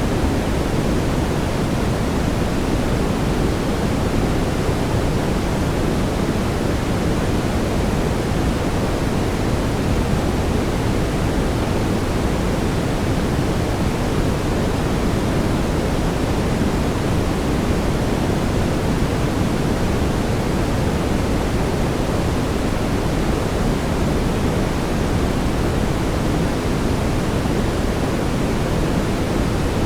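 Steady brown noise: an even, unbroken hiss weighted toward the low end, with no changes or events.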